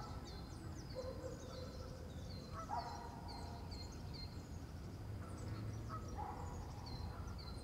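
Outdoor bird ambience: a bird repeating short high chirps about twice a second, with a few lower drawn-out calls from another bird, over a low steady rumble.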